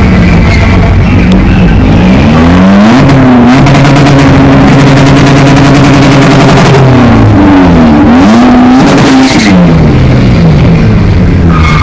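A car engine is revved: about three seconds in its pitch climbs and is held high for roughly three seconds. It then drops, is blipped up and down again about eight seconds in, and settles back to a lower idle.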